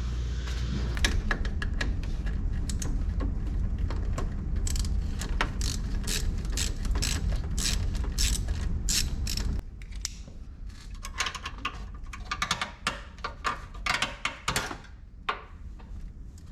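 Runs of quick ratcheting mechanical clicks, irregular in pace, over a low steady hum that drops away abruptly about ten seconds in.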